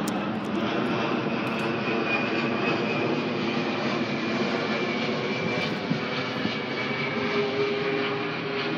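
Jet airliner passing low overhead: a steady engine noise with a faint high whine that slowly drops in pitch.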